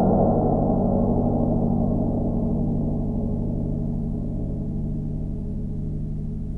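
A huge steel spring, picked up by a contact mic inside it, ringing with low metallic tones that slowly fade.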